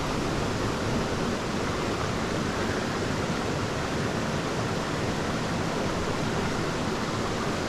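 Steady rushing of water in a small moorland stream.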